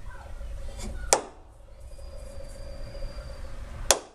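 Kenmore Elite HE3 front-load washer drum giving two sharp clicks about three seconds apart, like a plastic piece being hit, over a low steady hum. This is the click the owner gets twice per drum revolution, from a cause he has not found.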